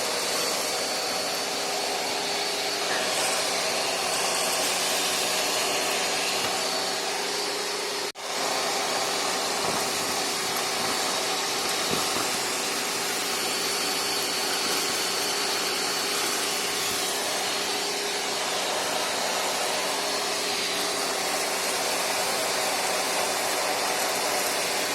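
Several vacuum cleaners running at once: a steady whine of motors over rushing air. The sound drops out for an instant about eight seconds in, then carries on unchanged.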